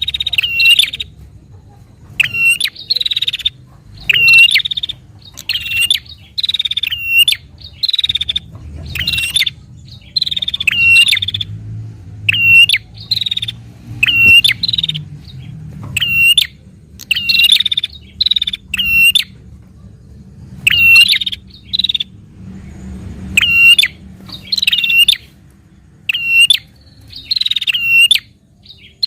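Prinia (prenjak) calling fast: loud, repeated short bursts of sharp, high chirps, about one burst a second, with a pause of a couple of seconds about two-thirds of the way through.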